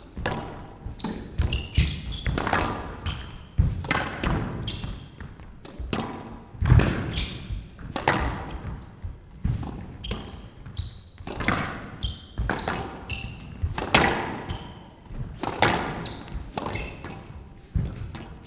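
Squash rally: the hard rubber ball cracking off the rackets and the court walls in sharp, echoing knocks about once a second.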